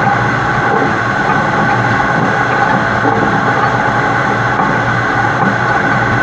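Steady, loud rolling rumble of a heavy truck and its super-load trailer, heard from a camera mounted on the truck's side: tyre and running-gear noise over the engine, unchanging throughout.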